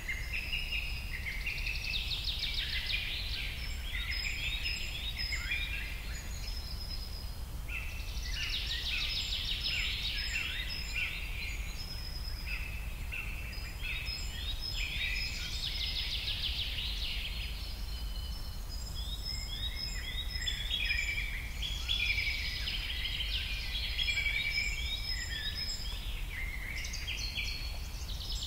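Small birds chirping and twittering in recurring bursts of quick trills and short sweeping calls, over a steady low rumble.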